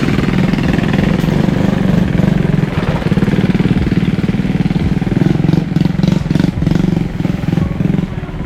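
A small engine running steadily close by, a loud low hum with a fast, even pulse, with a few light clicks over it about two-thirds of the way through.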